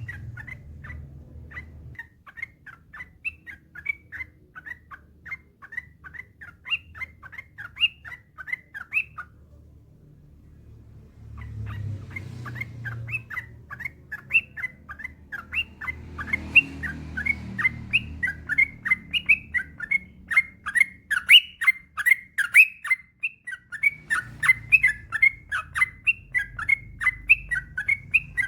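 Yellow-vented bulbul (trucukan) singing a long, fast run of short chattering notes. It breaks off for about two seconds roughly nine seconds in, then resumes in a denser, louder run. A faint low hum sits underneath.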